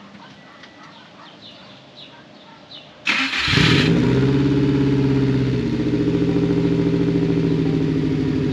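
2004 Subaru WRX's turbocharged flat-four is cranked and catches about three seconds in, then runs at a fast idle that drops a little a couple of seconds later. This is the engine with the knocking noise under the hood that the owner sets out to diagnose as rod knock.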